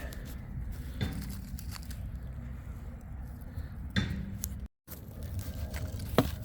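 Small sticks knocking and clicking against each other as they are stacked into a small pyramid for a campfire: a few sharp wooden clicks, about a second in, about four seconds in and near the end, the last the loudest, over a steady low rumble.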